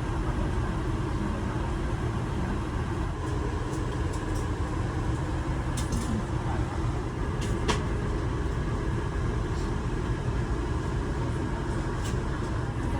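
Steady low rumble of an aircraft cabin's air conditioning, with a few faint clicks and knocks.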